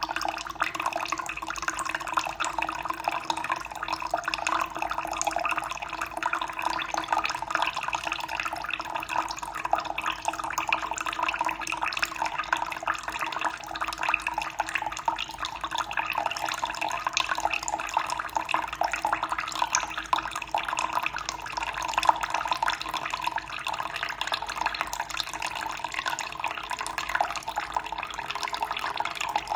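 Water running and splashing steadily in a continuous trickling flow, with a faint steady hum underneath.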